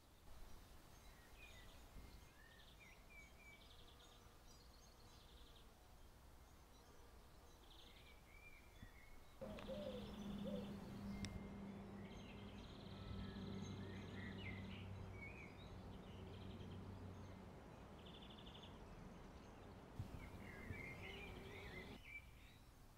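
Faint outdoor ambience with scattered small bird chirps and short trilled calls. About ten seconds in, a low steady hum joins and lasts until near the end.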